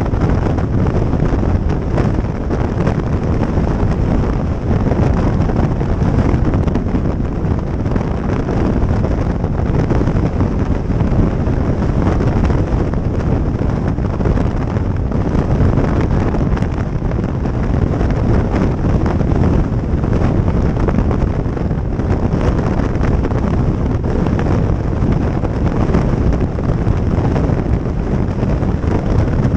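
Wind rushing and buffeting over the microphone on a moving motorcycle, a loud steady roar heaviest in the low end, with the bike's running and road noise blended into it.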